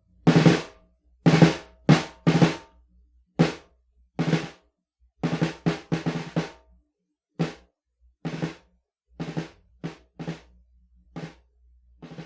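A lone drum beating out a march-time outro, with single strokes and short quick clusters of strokes, growing fainter toward the end.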